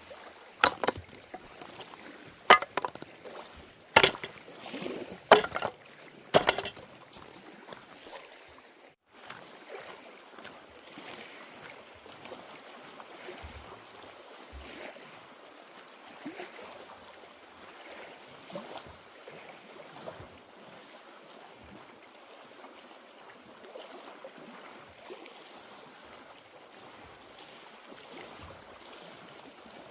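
Kayak on the water: about six sharp knocks in the first seven seconds, like a paddle or gear striking the hull, then after a short break a steady wash of water along the boat.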